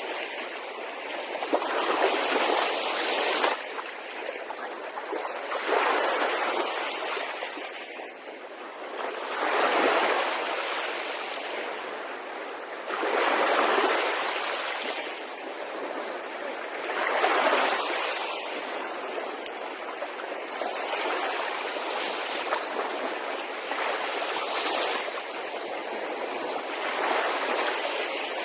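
Small Red Sea waves washing onto the shore, a rushing hiss that swells and falls back about every four seconds.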